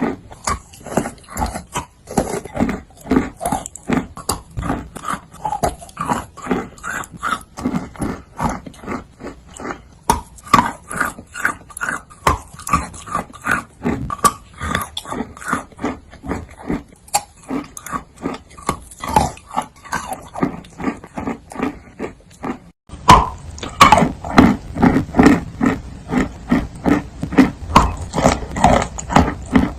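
Close-miked chewing and crunching of chalk in big bites, with quick, even chews at about two or three a second. About three quarters of the way through, the chewing turns louder and deeper.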